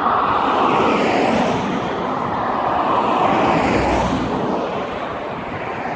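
Road traffic passing close by: a steady rush of car tyre and engine noise that fades a little near the end.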